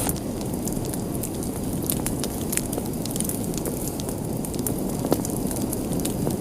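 Fire burning in a fireplace: a steady low rush of flames with irregular sharp crackles and pops.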